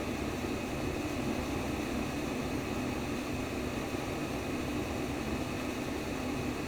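Steady whooshing simulated womb sound, a white-noise track for soothing babies, heaviest in the low-middle range and unchanging throughout.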